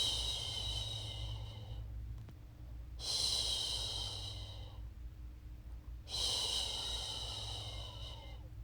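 A woman's voice shushing a baby to sleep, long drawn-out "shhh" sounds, three in a row, each about two seconds with a short pause between, over a low steady hum.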